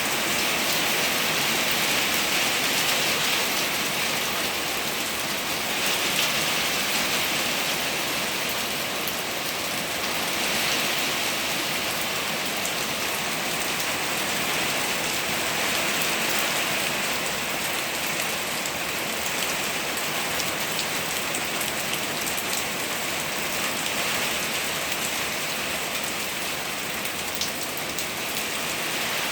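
Steady rain pouring down in a storm, its hiss swelling and easing every few seconds.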